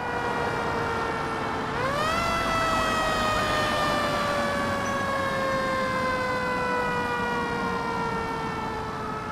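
Fire engine siren sounding a long, steady wail. About two seconds in its pitch sweeps up, then it slowly falls, with a fainter rising-and-falling tone beneath it.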